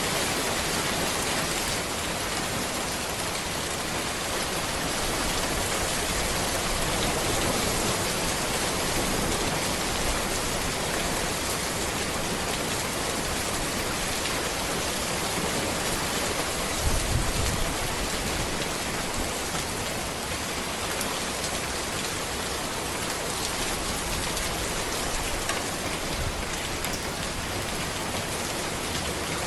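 Steady, dense rain falling on a road, with a brief low thump a little past halfway.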